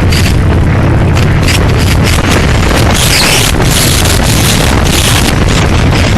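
Harley-Davidson Sportster's V-twin engine running steadily while riding, with wind buffeting the microphone in gusts that come and go.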